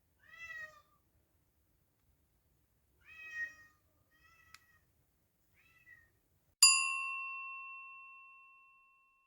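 A cat meowing four times, the first two clearest and the last two faint. It is followed by a single bright bell ding that rings on and dies away over about two seconds.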